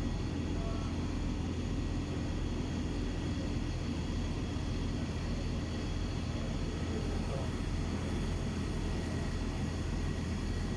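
A large engine running steadily with an even low drone that does not rise or fall.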